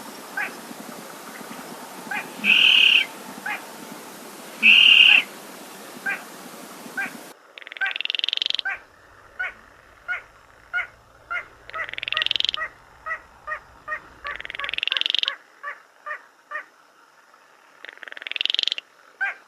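Baillon's crake calling, played back from a bird-call recording: short clicking notes with longer calls a few seconds apart. About a third of the way in the recording changes abruptly, and evenly spaced short pips, about two a second, alternate with longer rising rattling calls.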